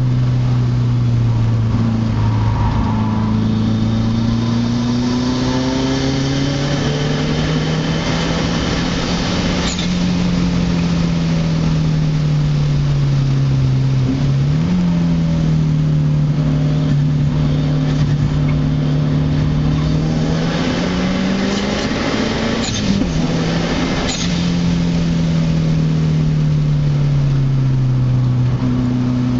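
2004 Subaru WRX's turbocharged flat-four engine under load, heard from inside the cabin. The revs climb and fall back several times, with an abrupt dip and recovery about halfway through and again near the end, over steady tyre and road noise.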